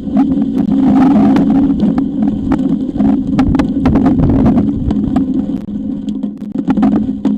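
High wind buffeting a nest-camera microphone: a loud, steady low drone with rough rumbling underneath, broken by frequent short clicks and knocks.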